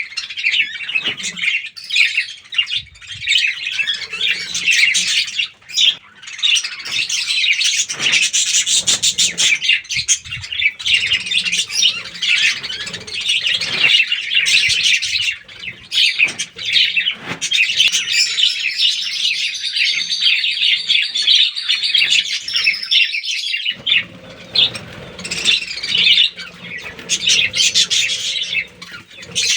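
A colony of budgerigars chattering and warbling together, a dense, continuous mass of overlapping chirps.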